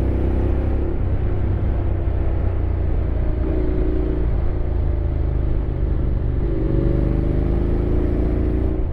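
Honda X-ADV 750's parallel-twin engine running under way, a steady low rumble whose pitch drifts up and down a few times as the throttle changes.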